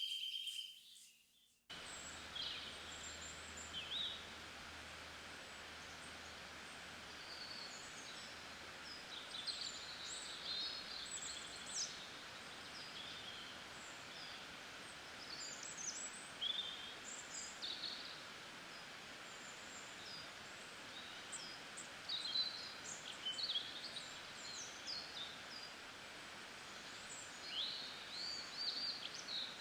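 Nature-sounds ambience: many small birds chirping and twittering over a steady background hiss. The ambience cuts in abruptly about two seconds in, after a brief fade to silence.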